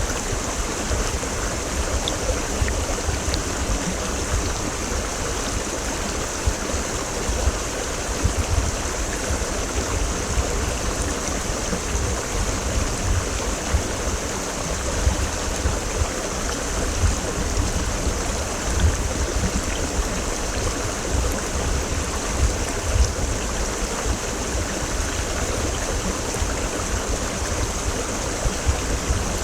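Mountain creek water rushing over rocks, a steady full rush with a deep rumble underneath.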